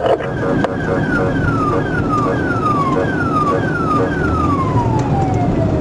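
Police car siren cycling through quick falling tones, about two a second, then switching to a slower wail near the end, over the engine and road noise of a moving patrol car.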